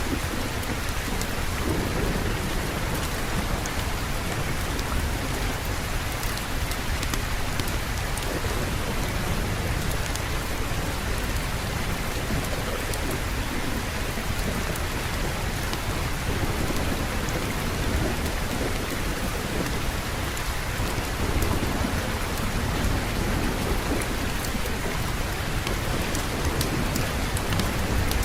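Steady heavy rain, with low rumbling thunder rolling underneath that swells and fades slowly.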